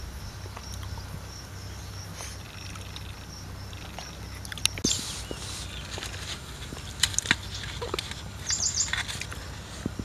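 Outdoor ambience with a small bird chirping: a faint high note repeated about twice a second, then a quick trill near the end. A few sharp clicks are heard over a low steady rumble.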